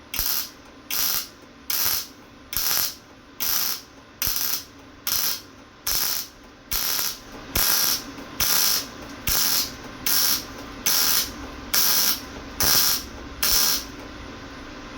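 Electric welder arc crackling in short, evenly spaced bursts, a little more than one a second, each about half a second long: stitch-welding a patch onto rusty car sheet metal with a freshly adjusted welder.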